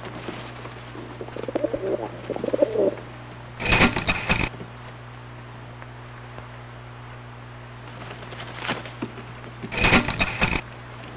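Rock pigeon cooing softly over a steady low hum. Twice, about six seconds apart, a short louder burst carrying a high steady tone cuts in.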